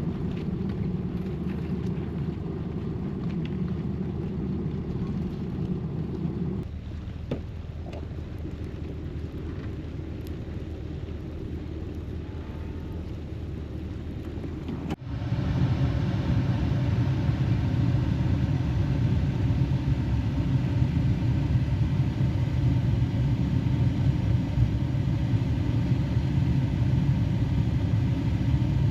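A vehicle's engine running with a steady low rumble. It eases off slightly about six seconds in, and about halfway through it changes abruptly to a louder, deeper rumble.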